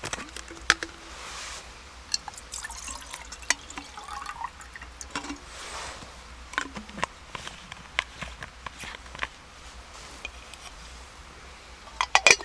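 Liquid being poured and dripping, among scattered clicks and knocks of camp cookware, with a quick run of louder knocks near the end.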